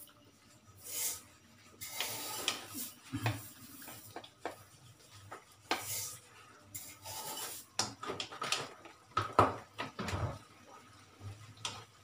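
Plastic spatula stirring saucy pork and liver in a metal wok, scraping along the pan with irregular scrapes and light knocks.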